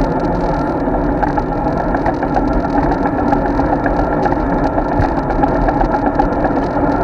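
Steady rumble and wind noise from riding a road bike, picked up by an action camera mounted on the bike, with frequent small rattles and clicks.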